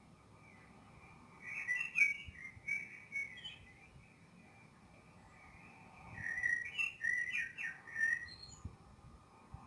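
Songbird singing in two bouts of quick, whistled, chirpy phrases, the first about a second and a half in and the second about six seconds in.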